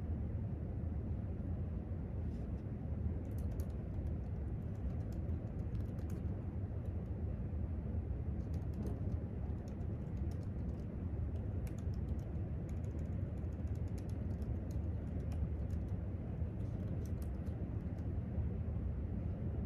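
Typing on a laptop keyboard: quick runs of key clicks with short pauses between them, over a steady low hum of room ventilation.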